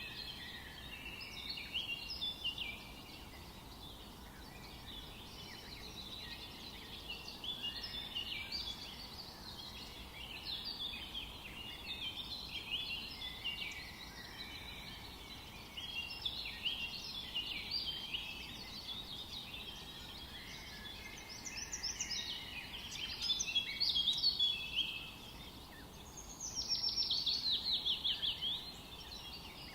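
Forest birdsong: several birds singing at once, with overlapping chirps and trills, over a faint steady background hiss. Near the end one bird gives a louder, fast series of descending notes.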